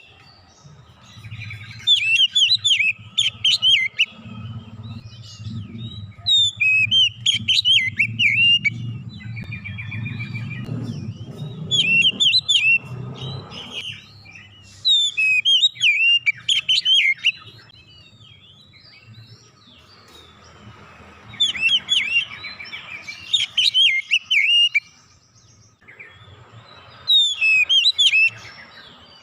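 Oriental magpie-robin (kacer) singing: repeated bursts of fast, varied whistled phrases, each a second or two long, with short pauses between. A low hum runs underneath during the first half.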